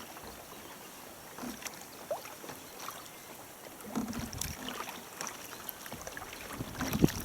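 Sea kayak paddling: paddle strokes splashing and water dripping and lapping around the hull, in scattered irregular splashes.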